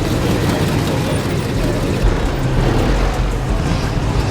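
Car engines rumbling steadily at low pitch, with music playing.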